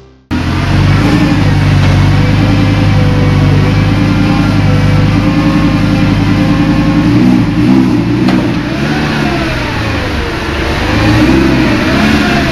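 Lamborghini Gallardo's V10 engine running at a steady idle, then revved up and down a few times in the second half.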